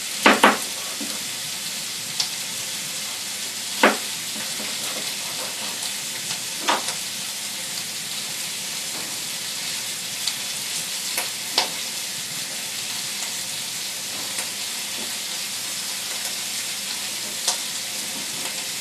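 Bacon frying in a pan with a steady sizzle. A few sharp knocks are scattered through it, two of them right at the start.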